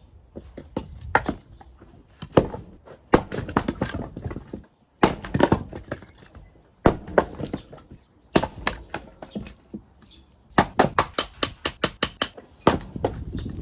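An axe splitting firewood: a series of sharp, hard knocks of the blade into the logs, one every second or so. Late on there is a quick rattling run of knocks, like split pieces clattering down.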